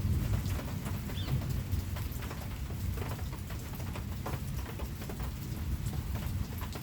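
Steady rain falling, individual drops pattering over a constant low rumble. A bird gives a short chirp about a second in.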